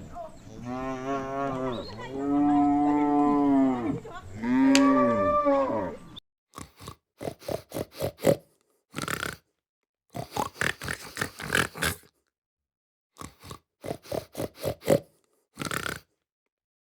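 A cow mooing three times, in long calls that rise and then fall in pitch. After that come bursts of short, quick animal sounds, several a second, separated by dead silence.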